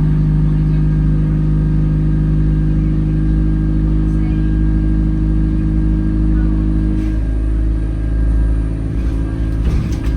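Alexander Dennis Enviro200 bus heard from inside the saloon: a steady engine drone with a low rumble and a thin high whine over it, the drone changing about seven seconds in to a rougher rumble as the engine note shifts. The uploader puts the whine, which he likens to a vacuum cleaner, down to the air-conditioning cooling fan.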